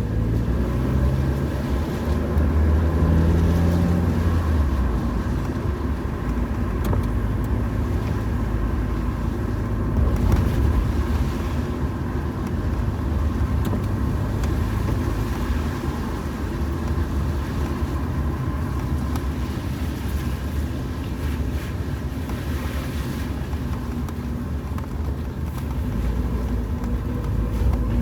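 Car driving along a road: a steady low rumble of engine and tyre noise, with the engine note rising briefly a few seconds in.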